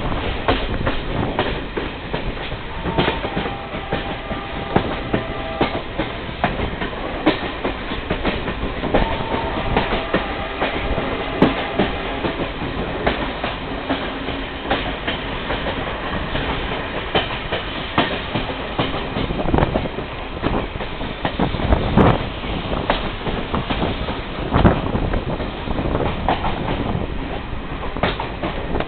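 A passenger train running, heard from on board: a steady rumble with the wheels clattering irregularly over rail joints. Twice, a thin high tone is briefly heard through it.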